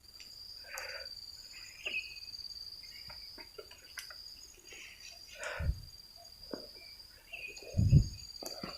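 An insect trilling steadily on one high pitch, with leaves and undergrowth rustling and a couple of dull thuds, the louder one near the end.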